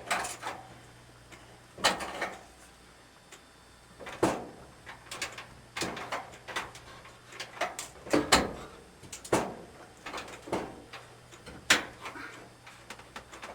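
Irregular clicks, knocks and rattles of sheet-metal dryer panels and parts being handled and fitted back together, about a dozen sharp strokes at uneven intervals.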